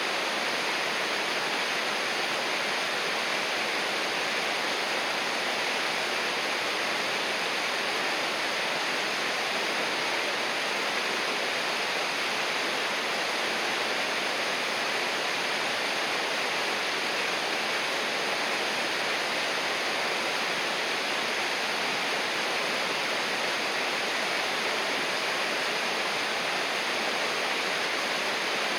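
River water rushing, an even hiss that does not change.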